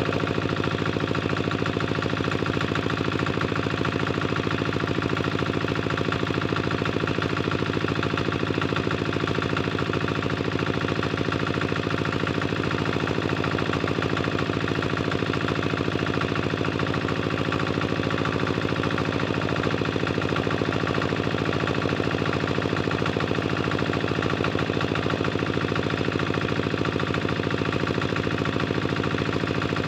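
Tractor engine running steadily, with a rapid even firing beat.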